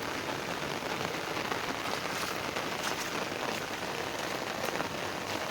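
Steady rain falling, an even hiss of drops with a few sharper nearby drop ticks.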